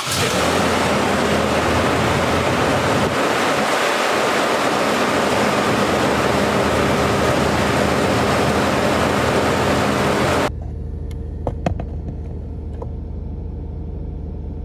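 Toyota FJ Cruiser's 4.0-litre V6 running just after a cold start at 12°F, a loud even rush over a steady low drone. About ten seconds in it drops to a quieter steady hum heard inside the cab, with a few light clicks.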